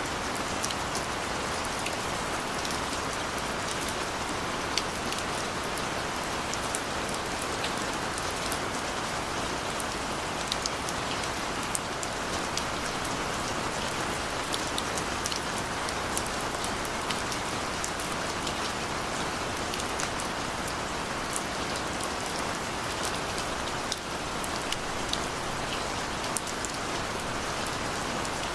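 Steady rain falling, with an even hiss and many small drop ticks on hard surfaces throughout. No thunder is heard.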